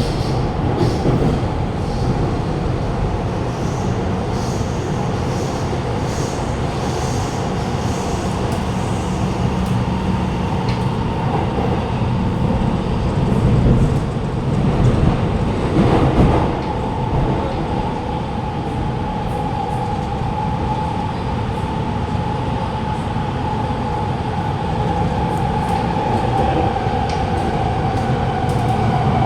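Alstom Movia R151 metro train running through a tunnel, heard from inside the carriage: a steady rumble of wheels on rail with a steady whine in it. There is a brief louder rush about halfway through.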